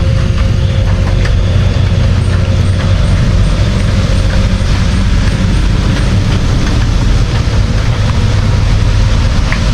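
Steady heavy rain with a deep, continuous rumble underneath and small drop ticks scattered through it.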